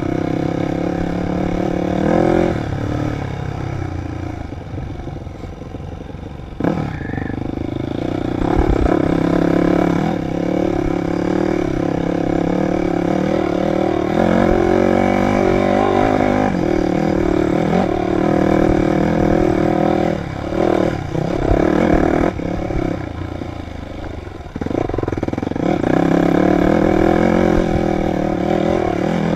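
Dirt bike engine running under way, revving up and down with the throttle and easing off briefly a few times.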